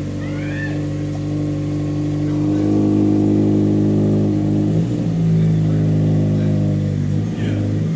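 Subaru BRZ's flat-four engine running through a freshly fitted axle-back muffler-delete exhaust as the car pulls up, a loud steady engine note that grows louder about two and a half seconds in. The note dips briefly around five seconds in and again near the end.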